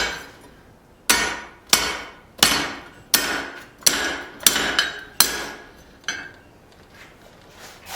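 Blacksmith's hand hammer striking hot steel on the anvil while punching a hole through a tong half. Seven strong blows come about 0.7 s apart, each with a short metallic ring, followed by a lighter blow about six seconds in.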